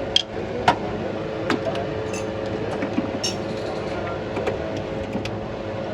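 Metal hand tools clinking and clicking in scattered sharp knocks over a steady mechanical hum.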